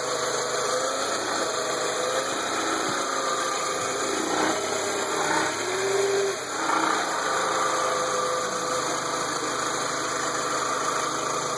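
2002 VW Jetta engine running with the car in reverse and a little throttle, with a faint steady whine over the engine hum. The level rises briefly about six and seven seconds in. This is the reverse-gear noise that is heard inside the car but not at the engine.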